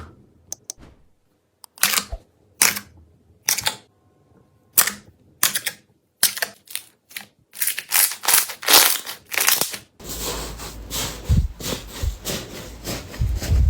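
Slime worked by hand, giving sharp, irregular clicking pops. About ten seconds in, the sound changes abruptly to a continuous crackling squish with soft low thuds.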